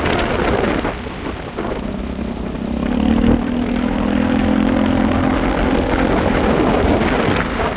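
Motorcycle on the move: a rushing noise throughout, with a steady engine drone standing out from about two and a half seconds in until near the end.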